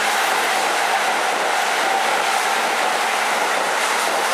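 Hokusō Railway 7200-series electric train running past close by: a steady, even rush of wheels on rail and running gear with a faint whine.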